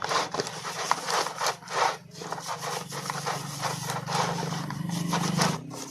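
Brush scrubbing a motorcycle drive chain soaked in kerosene, in quick repeated back-and-forth scraping strokes.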